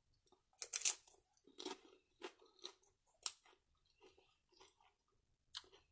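Crisp tortilla-chip nacho bitten with a loud crunch just under a second in, then chewed with irregular crunches that grow fainter.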